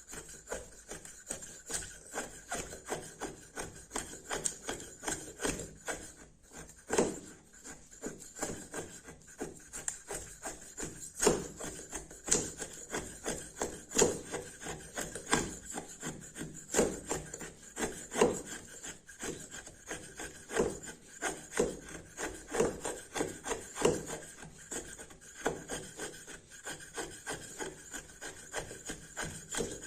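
Fixed-blade knife working wood in repeated scraping strokes, about two to three a second, with some harder strokes every second or two.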